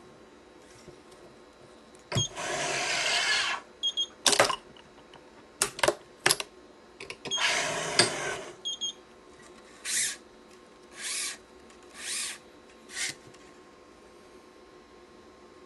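Badminton string being drawn through the racket's string bed while the crosses are weaved and pulled. There are two long hissing zips with sharp clicks between them, then four short swishes about a second apart.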